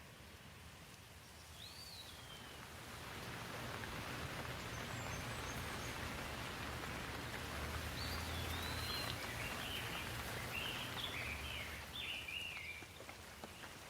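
Rain falling, swelling in over the first few seconds and easing off near the end, with a bird chirping once early on and in a run of short calls in the later part.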